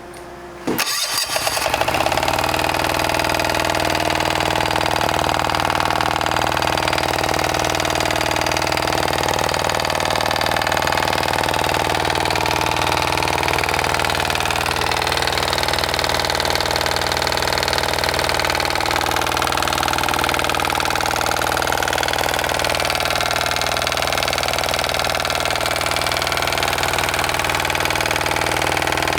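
Yanmar L40 single-cylinder air-cooled diesel engine starting under a second in, then running steadily at a constant speed.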